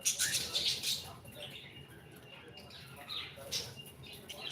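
Pet parrot making short, scratchy, high chirps and chatter, a burst of them in the first second and a few softer ones about three seconds in.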